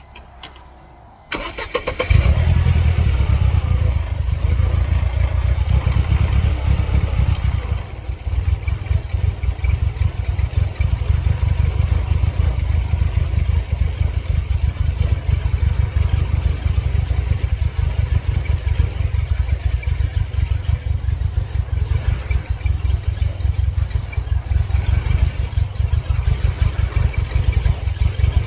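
Starter cranking a 1999 Mercedes-Benz C230 Kompressor's supercharged 2.3-litre four-cylinder for about a second before it catches. It runs at a raised cold idle, then drops to a lower, pulsing idle about eight seconds in. This is the engine the owner reports has serious problems, with the check-engine light flashing periodically.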